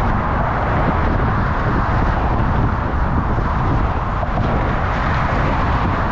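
Steady motor traffic and road noise heard from a moving bicycle, mixed with rushing air on the microphone.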